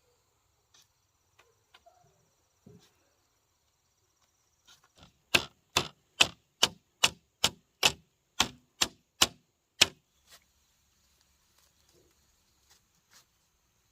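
A dozen sharp, evenly spaced knocks, about two and a half a second, for some five seconds, with a few faint taps before and after.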